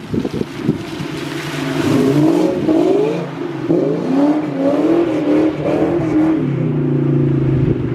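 Car engine revving hard, its pitch swinging up and down several times, then holding steady near the end.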